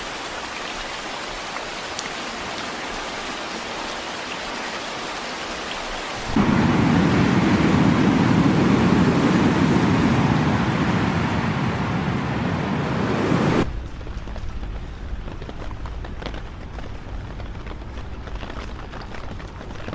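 Hurricane rain as a steady hiss; about a third of the way in it turns abruptly into a much louder, deeper rush of storm noise, which cuts back about two-thirds of the way in to a quieter hiss with scattered drips and taps.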